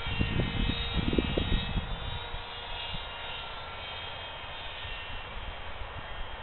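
Brushless electric motor and 6x5 propeller of a small foam RC plane giving a steady whine in the air. Wind buffets the microphone with low gusty rumbles for the first two seconds.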